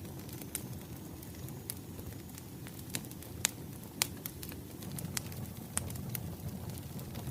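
Wood fire burning with a low steady rumble and irregular sharp crackles and pops, two louder pops near the middle.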